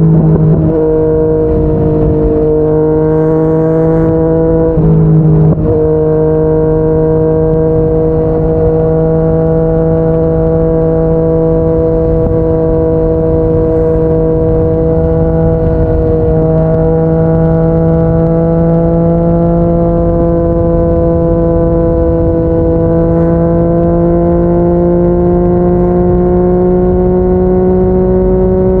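Yamaha MT-09's inline-three engine running hard through a Yoshimura R55 slip-on exhaust at steady cruising revs. The note breaks briefly twice in the first few seconds, then rises slowly in pitch through the second half as the bike picks up speed.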